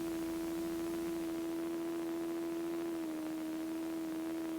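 Steady single-pitched hum on the KR-2S's cockpit intercom audio feed in flight, stepping down slightly in pitch about three seconds in.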